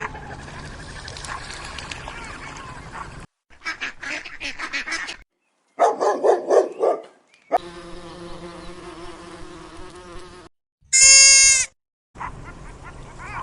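A run of short animal-sound clips, one after another, each cut off abruptly with brief silences between. The loudest are a burst of rapid repeated calls about six seconds in and a short, high, clearly pitched call about eleven seconds in.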